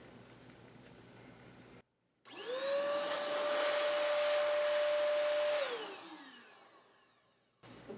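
Vacuum cleaner switched on, its motor whine rising quickly to a steady pitch over a rush of air for about three seconds, then switched off and winding down in a falling whine.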